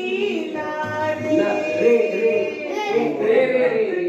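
Several young voices singing together, holding notes over one another.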